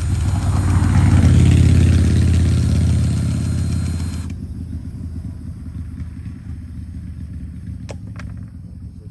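Skid steer engine running at raised revs, swelling over the first couple of seconds, then a high whine cuts off abruptly about four seconds in and the engine settles to a lower, steadier run. A couple of sharp clicks near the end.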